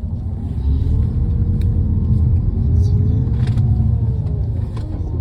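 Low rumble of a bus engine and road noise heard from inside the moving bus, the engine's pitch rising and falling, with a few light rattles.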